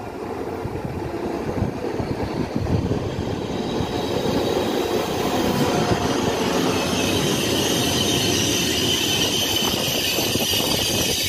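Trenitalia Intercity train, an electric locomotive hauling passenger coaches, approaching and running past on the track. It is a rumble of wheels on rails that grows louder over the first few seconds, then holds steady as the coaches go by, with a rising high squeal and hiss from about halfway in.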